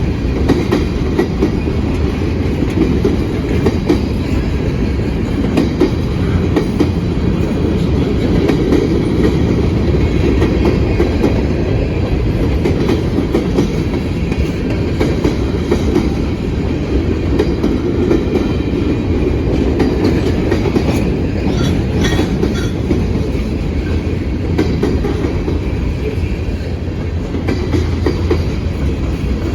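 Freight train rolling past, a steady heavy rumble of railcars with the clickety-clack of wheels over the rail joints.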